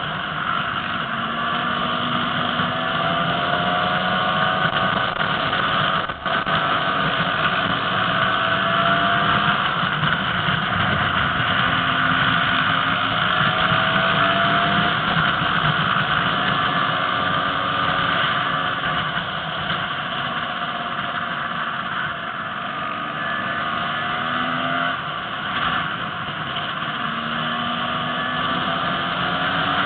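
Enduro motorcycle engine running on the road, its pitch rising in repeated stretches as it pulls through the gears, over a steady rush of riding noise.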